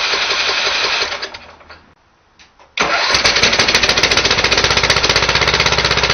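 10 horsepower Tecumseh go-kart engine being cranked over without catching, in an even rapid chug. One attempt fades out about two seconds in, and a longer crank starts shortly after: a failed start.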